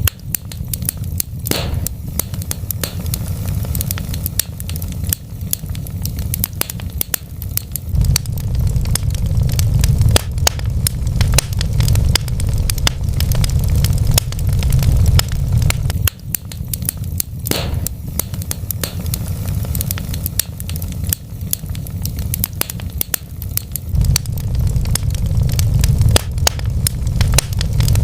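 Wood fire crackling and popping, with dense small crackles and the odd louder pop over a steady low rumble. The same stretch appears to repeat about every 16 seconds.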